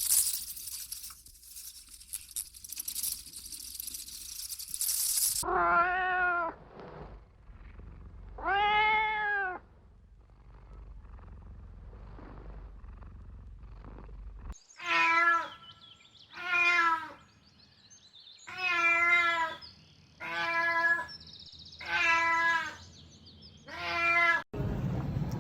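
Kitten meowing: two long meows that rise and fall in pitch, then six shorter meows in a row. They are preceded by a high rustling hiss.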